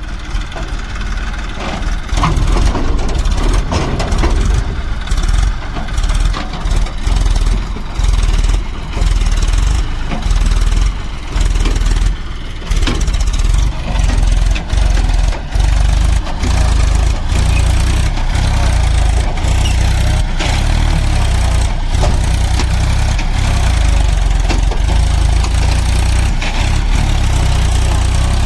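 Massey Ferguson 1035 tractor's three-cylinder diesel engine running under heavy load while trying to pull a water tanker. Its level surges and drops unevenly about once a second for the first half, then holds steady.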